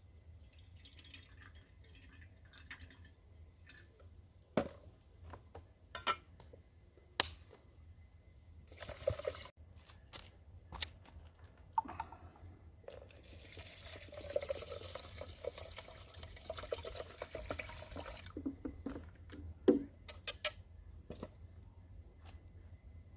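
Water being poured and handled during camp cooking, with a steady pour lasting about five seconds in the second half. Scattered knocks and clinks of cookware come before and after it.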